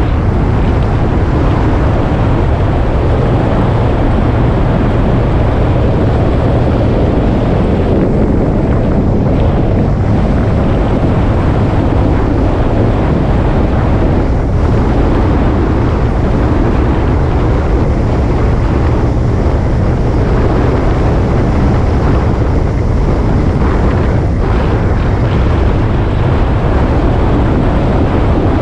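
Motorcycle running steadily at road speed, with heavy wind rush on the microphone.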